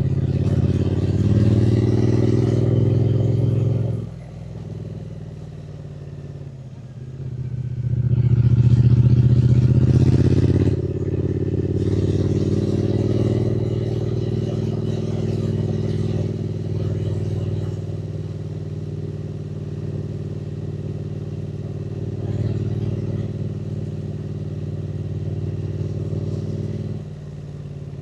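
Triumph Speed Twin 900's parallel-twin engine on the move: it pulls strongly for about four seconds and then drops away as the throttle closes. It opens up loudly again about eight seconds in, then runs at a steady cruise before easing off again near the end.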